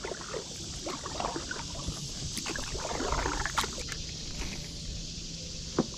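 Small splashes and knocks from a kayak on the water, as from a paddle or hands in the water and gear bumping the hull, with a sharper knock near the end.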